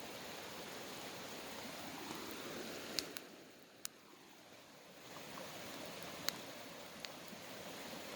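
Campfire burning: a few sharp pops over a rushing hiss that swells and eases twice.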